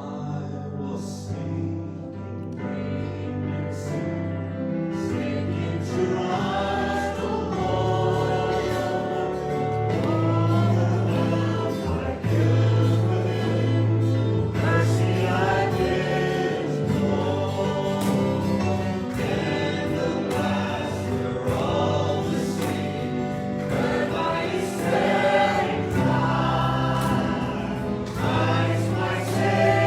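Church worship song: sustained instrumental accompaniment, with a group of voices singing from about six seconds in.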